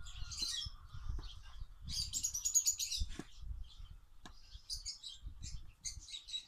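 Small birds chirping and twittering repeatedly, with a few light knocks as potato slices are laid into a metal baking tray.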